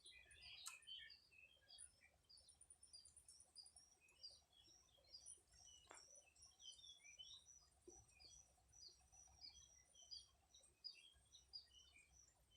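Faint birds chirping, many short high calls overlapping, with a rapid high trill in the first few seconds and a few soft clicks.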